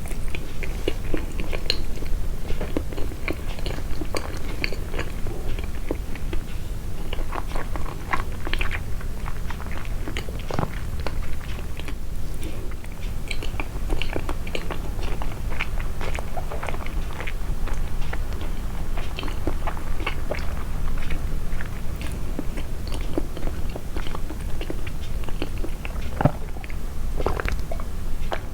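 Close-miked chewing and biting of soft homemade sweets: irregular wet mouth clicks and smacks throughout, with the eating sounds amplified.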